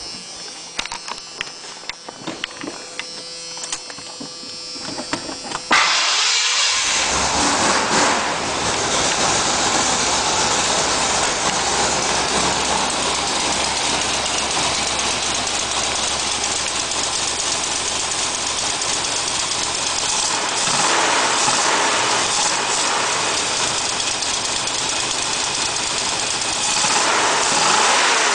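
Ford 5.0 V8 being started: several seconds of clicking and ticking, then the engine fires about six seconds in and settles into a steady but rough idle, swelling briefly twice later on.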